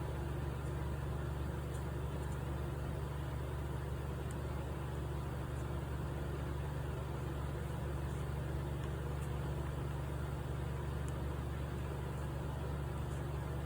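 Steady low hum, unchanging throughout, with a few faint ticks over it.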